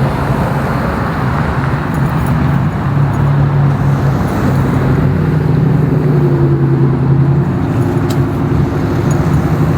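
Car engine running with a steady low hum over road traffic noise; the hum shifts slightly in pitch about six seconds in.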